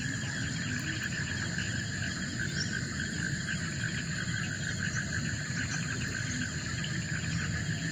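Forest insect chorus: many insects trilling steadily at several pitches at once, over a low steady hum.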